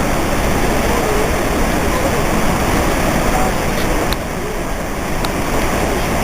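Steady rushing roar of Niagara Falls' falling water, with faint voices in the background.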